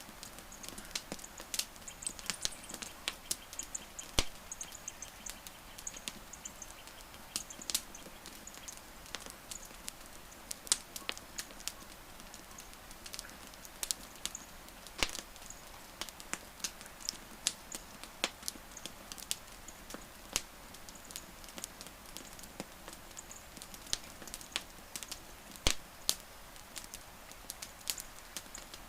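Wood fire crackling, with irregular sharp pops and snaps, some much louder than others, over a soft steady hiss.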